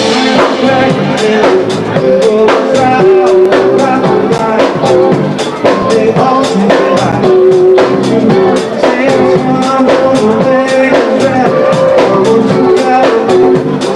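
Band music: a drum kit keeps a steady beat under instruments and a singing voice.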